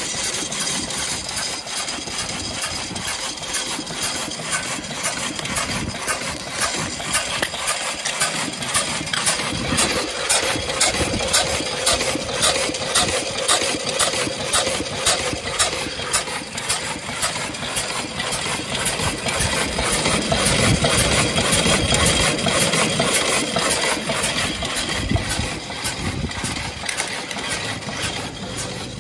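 The single-cylinder engine of a 1901 Curved Dash Oldsmobile idling steadily, its firing strokes coming as an even run of separate beats. The engine has just been brought back to life after sitting unused for over ten years.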